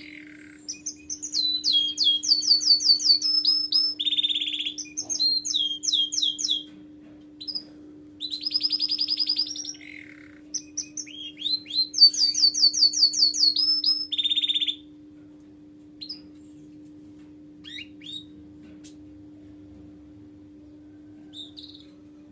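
Domestic canary singing: fast trills and rolling phrases in bursts for about the first fifteen seconds, then only a few scattered chirps. A steady low hum runs underneath throughout.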